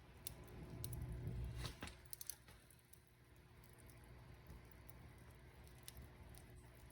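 Fireplace fire crackling: scattered sharp pops and crackles over a low rumble of flames. The rumble is louder for the first two seconds, then the fire goes on softly with sparse crackles.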